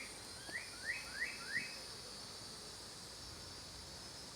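A small bird gives a quick run of short, rising chirps, about five in the first two seconds, over a steady high-pitched insect trill.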